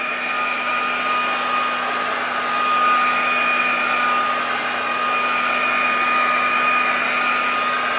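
Heat gun running steadily, its fan blowing hot air with a steady whine over it.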